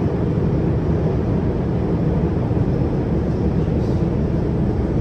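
Steady running noise of a CRRC Qingdao Sifang Type A metro train at speed between stations, heard from inside the carriage: an even, low rumble of wheels on track.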